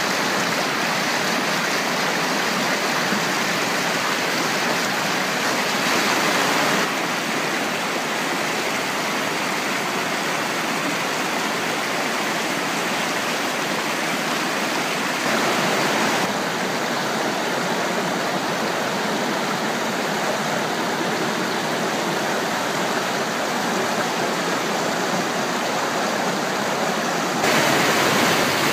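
Stream water rushing and babbling steadily. Its tone shifts abruptly three times, where the sound jumps from one stretch of water to another.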